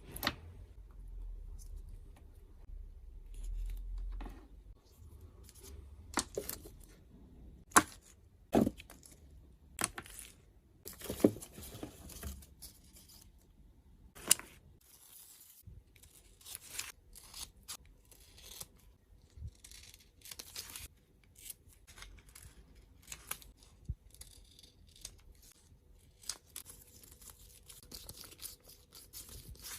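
Washi tape being peeled, torn and handled, with rustly tearing stretches, thickest near the end, and scattered sharp clicks and taps, the loudest about 8, 9, 11 and 14 seconds in.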